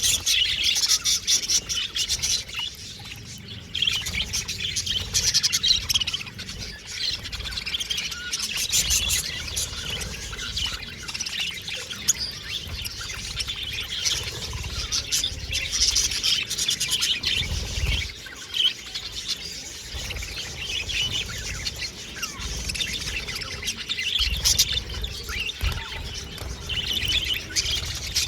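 Several budgerigars chattering and chirping continuously in a busy, overlapping warble.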